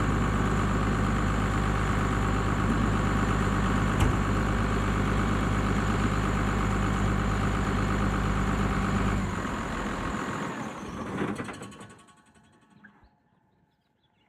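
Case IH MX135 tractor's Cummins 5.9 six-cylinder turbo diesel idling steadily, with a single click about four seconds in. About nine seconds in the engine is shut off and its sound dies away over the next two seconds or so, leaving near silence.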